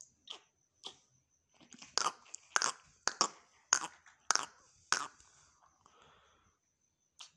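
Indian ringneck parrot making an irregular series of short crunching clicks, about a dozen, loudest and most closely spaced between two and five seconds in.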